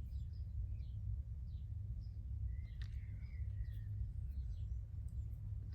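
Small birds chirping in the background, short scattered chirps with one longer call about three seconds in, over a steady low rumble.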